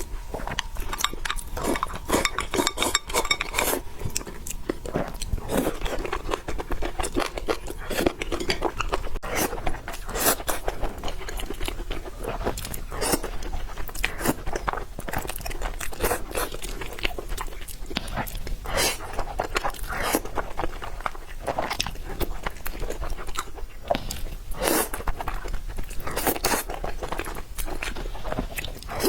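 A person chewing and crunching food close to the microphone: a steady, irregular run of short crunchy mouth clicks.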